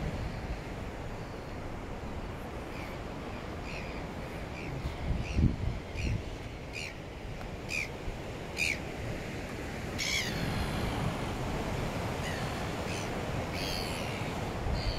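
A bird calling over and over in short notes, about two a second and growing louder, then a longer falling call and a few more notes, over a steady wash of surf and wind. A brief low rumble of wind on the microphone comes about five seconds in.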